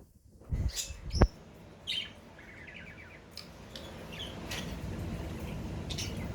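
Budgerigars chirping with short calls and a brief fast trill, after two dull thumps near the start.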